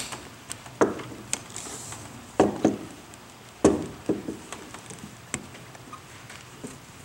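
Wire cutters snipping through a rubber garden hose: about half a dozen sharp clicks and snaps, irregularly spaced.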